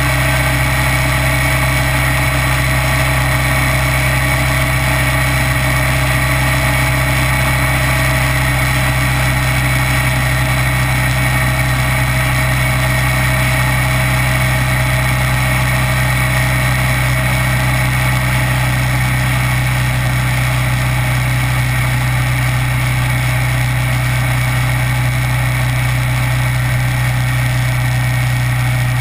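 Kawasaki Vulcan 900's V-twin engine running at an unchanging engine speed, with a steady rush of noise over it.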